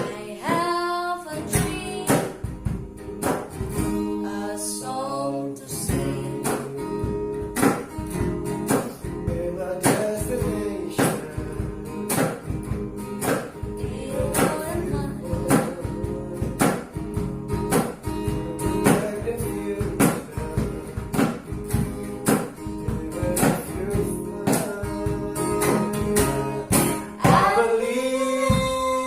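Acoustic guitar strummed in a steady rhythm, with a voice singing along briefly near the start and again near the end.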